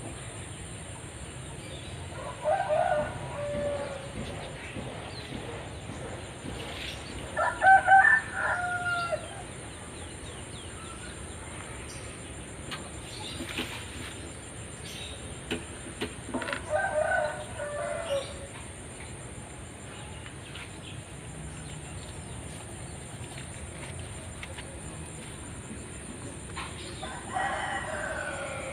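A rooster crowing four times, each crow about a second and a half long, the loudest about eight seconds in.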